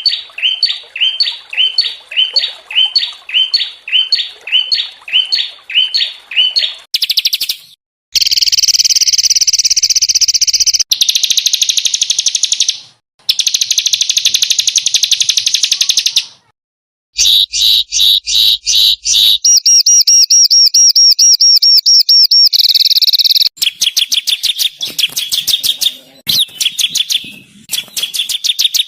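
Small songbirds singing, spliced from several recordings: first a high note repeated about twice a second, then after abrupt cuts and short silences, long dense fast trills and rapid high notes.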